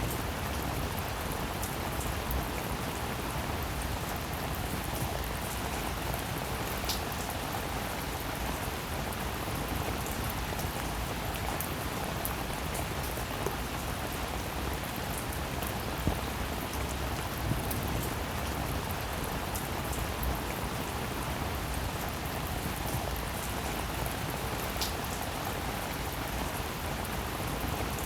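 Steady rain falling, an even hiss full of fine drop ticks with a few sharper individual drips standing out now and then.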